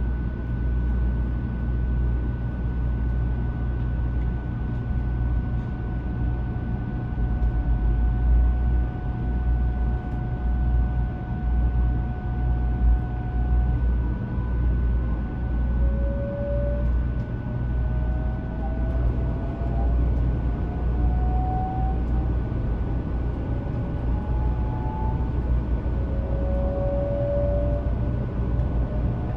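500 Series Shinkansen's VVVF inverter whining over a steady low rumble. A steady high tone is joined at first by a second steady tone; from about halfway, several tones rise in pitch one after another, as the inverter sound does while the train gathers speed.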